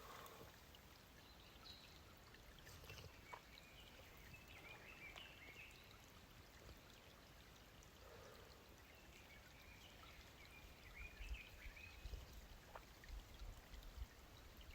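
Near silence: faint outdoor background noise with a few faint high chirps.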